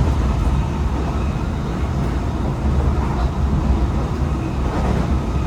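Tokyo Metro 18000 series electric train running at speed between stations, a steady low rumble of wheels on rail and running gear heard from inside the carriage.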